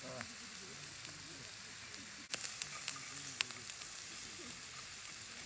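Food sizzling and frying in a skillet over a charcoal fire, stirred with chopsticks. A cluster of sharp clicks comes a little past two seconds in, as the chopsticks knock against the pan.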